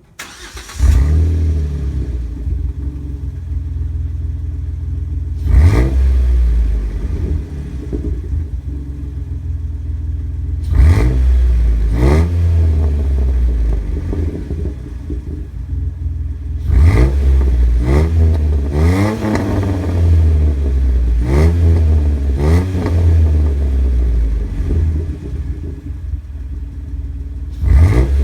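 2010 Jeep Wrangler JK's 3.8-litre V6 through a Gibson stainless steel split exhaust, with a K&N intake, idling loudly and revved in quick throttle blips whose pitch rises and falls. The engine comes in suddenly about a second in, then about eight revs follow, several close together in the second half.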